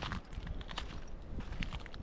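Footsteps crunching on a sand and shell beach, several uneven steps with small crackles, over a low rumble.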